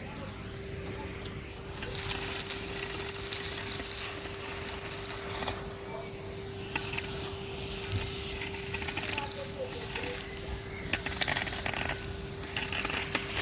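Henry HVR 200-22 vacuum cleaner running with a steady motor whine. Its hose sucks up grit and debris from the street in crunchy, rattling stretches that start and stop several times.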